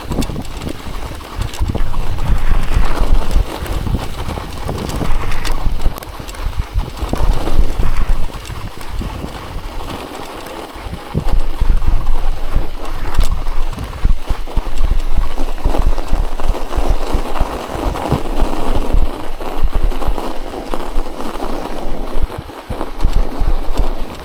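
Bicycle tyres rolling through packed snow, crunching and creaking in an uneven rhythm while pedalling, over a low rumble.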